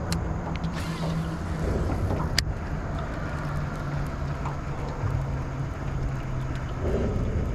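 Steady low motor drone with a level hum, and a sharp click about two and a half seconds in.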